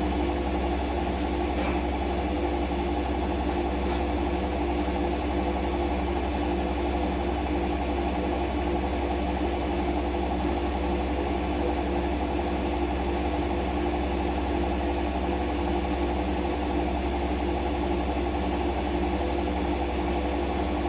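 Siemens washing machine in its spin cycle, the motor and drum running at a steady speed with a constant, even hum.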